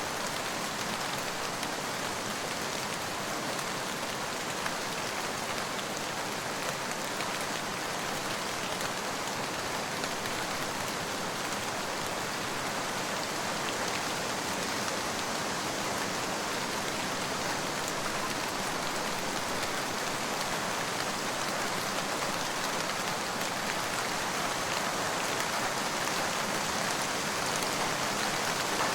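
Steady rain falling, an even hiss of countless drops that grows slightly louder towards the end.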